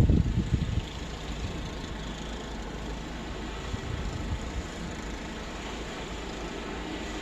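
Steady outdoor noise of storm wind, with a gust buffeting the microphone with a low rumble in the first second.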